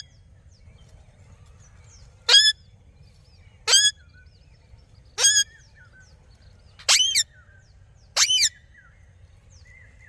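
Parrot giving its natural calls: five loud, short, harsh calls spaced about a second and a half apart, with faint chirping of smaller birds in the background.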